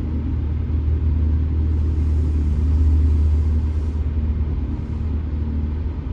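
Car running as it is driven slowly, heard from inside the cabin as a steady low engine and road rumble. The rumble swells about two seconds in and eases again near the end.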